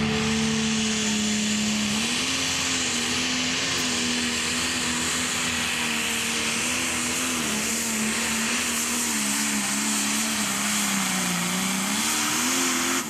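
Single-turbocharged pro stock pulling tractor's diesel engine running hard under load during a pull, with a dense high hiss over the engine note. The engine pitch wavers up and down as the driver works the throttle, dipping toward the end and climbing again before the sound cuts off suddenly.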